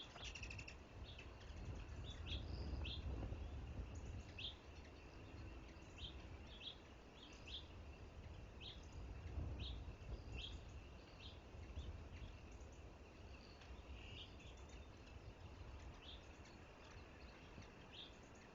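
Faint bird chirps: many short, sharp high notes scattered irregularly, over a steady faint high tone and a low rumble of wind noise that swells a few seconds in and again about halfway through.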